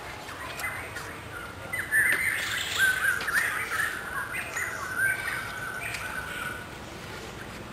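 Birds chirping in quick, short repeated calls, busiest and loudest from about two seconds in until about five seconds in.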